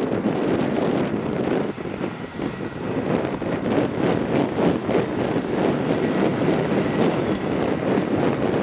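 Piper PA-46 single-engine light aircraft landing, heard under heavy wind buffeting on the microphone that gives a steady, gusting rumble.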